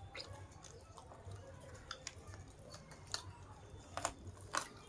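A person chewing food close to the microphone, with sharp crunchy clicks and mouth noises about once a second, the loudest near the end.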